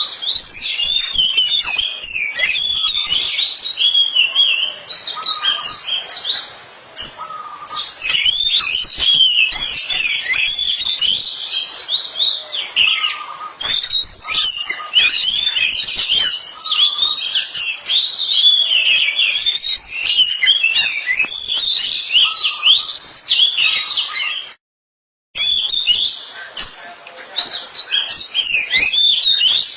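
Oriental magpie-robin song: a fast, unbroken run of varied whistled and chirping phrases. The sound cuts out completely for under a second about 25 seconds in.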